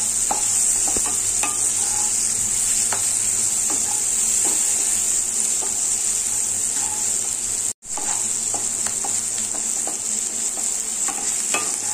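Mixed vegetables sizzling as they fry in ghee in a non-stick kadhai, with a spatula stirring and scraping through them in scattered clicks and scrapes. The sound cuts out for a moment about eight seconds in.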